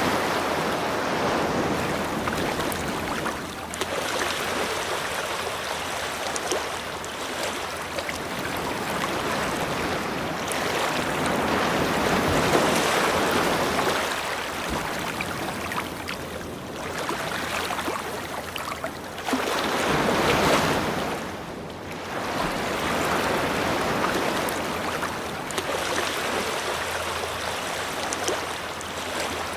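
Ocean waves breaking and washing up on a beach, a continuous rushing surf that swells and ebbs every few seconds.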